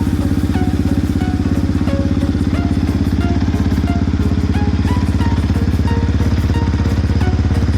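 Yamaha WR155R's single-cylinder four-stroke engine idling steadily with even, rapid exhaust pulses, run after its fresh oil and filter change.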